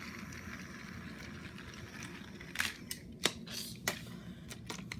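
Battery-powered Trackmaster toy train engine's small motor and gears whirring steadily, then a quick run of sharp plastic clicks and taps.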